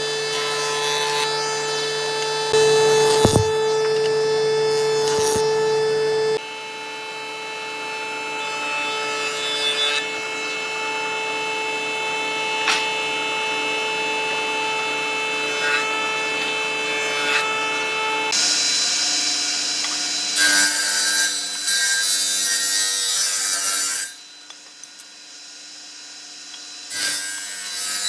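Electric power tool working wood: a steady motor whine under a rasping cut. It comes in several stretches that change abruptly about six, eighteen and twenty-four seconds in.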